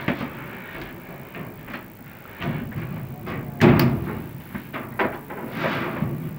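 Irregular scraping and knocking, the loudest knock a little past halfway, from a vent inspection camera being pushed up inside a dryer vent duct.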